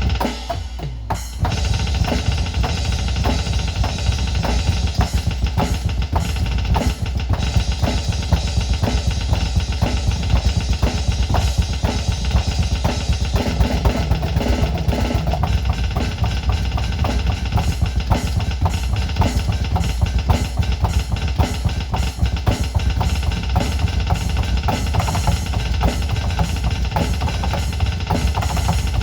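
Electronic drum kit played through a small portable Bluetooth speaker (JBL Charge 4): after a short fill, fast continuous double-bass-drum playing with snare and cymbal hits in a metal style.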